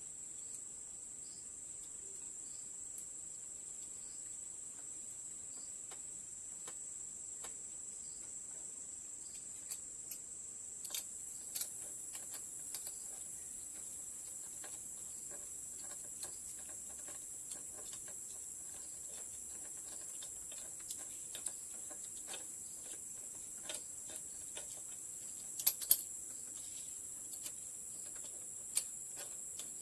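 Steady, high-pitched chirring of insects, with scattered light clicks and knocks over it and a louder double click near the end.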